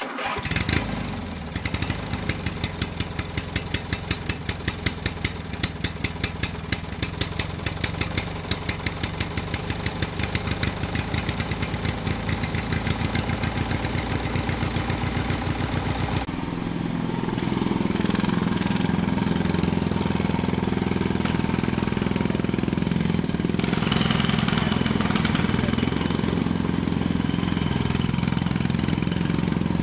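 An engine-like motor running with a fast, regular chugging pulse. About halfway through it changes to a steadier, deeper running sound.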